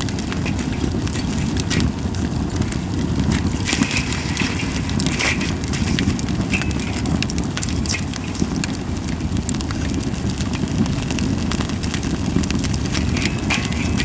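Japanese white pine (goyomatsu) wood burning in a campfire, with scattered sharp crackling pops over a steady low rumble.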